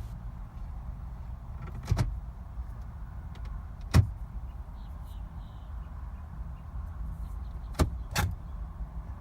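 Four sharp clunks inside a stationary car whose engine won't start, about two seconds in, four seconds in and twice near the end, over a steady low rumble.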